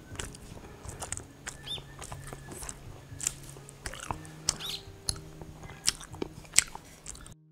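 A person chewing a mouthful of seafood pajeon (Korean seafood and green onion pancake), with irregular wet mouth clicks and crunches. The sound cuts off suddenly just before the end.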